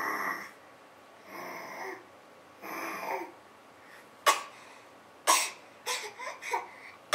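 Baby making funny vocal noises: three breathy, drawn-out sounds about a second and a half apart, then from about four seconds in a quick string of short, sharp squeals that drop in pitch.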